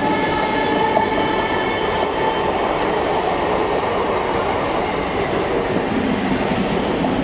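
MEMU electric train coaches rolling past at speed: a steady rumble of wheels on rail with clattering over the joints. A thin high whine is heard over it in the first few seconds and fades away.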